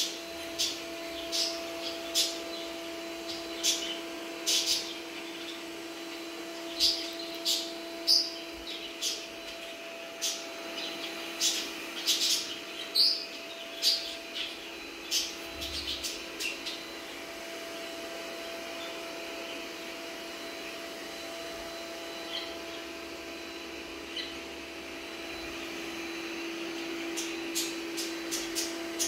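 Robot vacuum cleaner running with a steady hum. Short high chirps and clicks come over it, many in the first half and again near the end.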